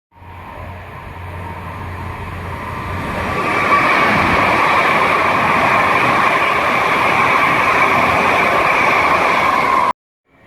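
Train approaching and passing at speed on the line. The rumble and rail noise grow over the first few seconds, then hold loud and steady with a high whine over the rush of the wheels, and cut off suddenly near the end.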